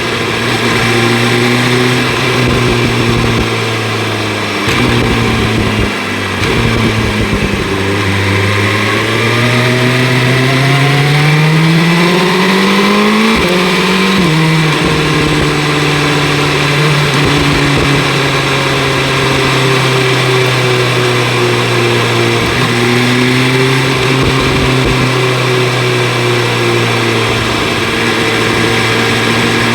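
BMW S1000 RR inline-four with Akrapovic exhaust under way: the engine note dips a few seconds in, climbs steadily under acceleration, drops sharply at a gear change about halfway, then holds a nearly steady cruise. A constant rush of wind noise runs beneath it.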